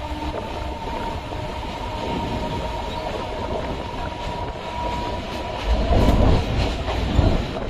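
Chennai MRTS electric suburban train running on the track, a steady rumble with a thin steady whine over it. Near the end it grows louder, with heavier low rumbling and a few knocks.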